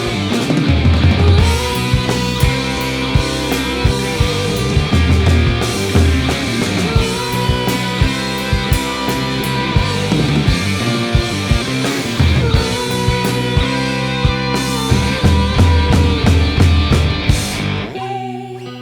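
Instrumental rock music from a full band with a steady beat. Near the end the band drops away to a quieter electric guitar.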